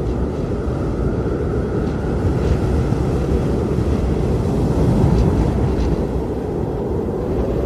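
Strong blizzard wind blowing steadily, a deep rumbling gusty roar with a faint howling tone, a few soft higher gusts swishing through.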